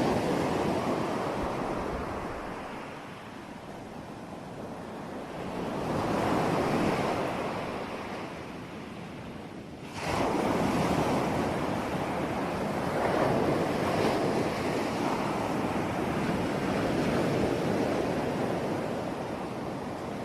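Ocean waves breaking on a shore, each one a rushing surge that swells and ebbs. One wave comes in about six seconds in, and a larger one crashes suddenly at about ten seconds, its wash running on to the end.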